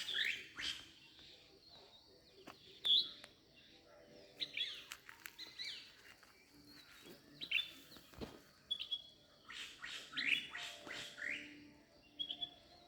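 Songbirds chirping: short, quick sweeping chirps and brief trills, repeated at irregular intervals.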